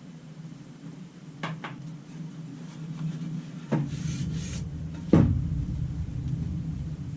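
Sharp clicks and knocks of parts and tools being handled, the loudest about five seconds in and followed by a low rumble, over a steady low hum.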